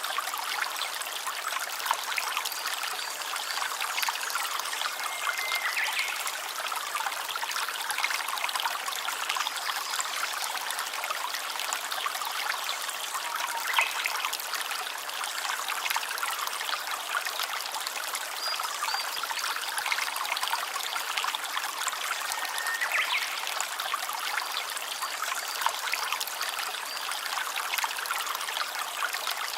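Small stream of water trickling steadily.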